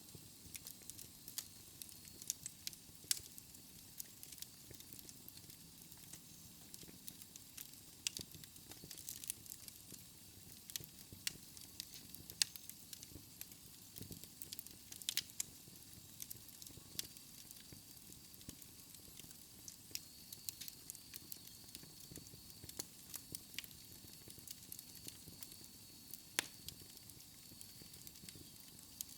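Fire crackling in a fireplace: irregular sharp pops and snaps, a few louder than the rest, over a faint steady hiss.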